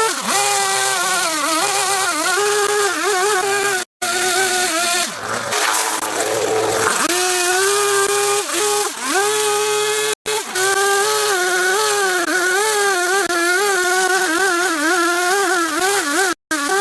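A small high-revving engine or motor running, its pitch wavering up and down continuously as if under changing load. The sound cuts out for an instant three times, at roughly six-second intervals.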